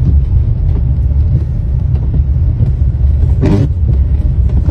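Steady low rumble, with a brief voice about three and a half seconds in.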